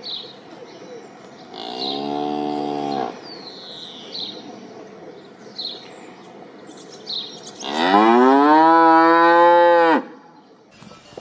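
Cattle mooing twice: a shorter, lower moo about two seconds in, then a louder, longer moo near the end that rises in pitch at its start and then holds steady. Faint short bird chirps come and go.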